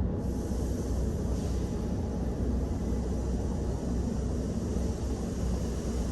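Steady low rumble of a car heard from inside the cabin, with a faint even hiss above it.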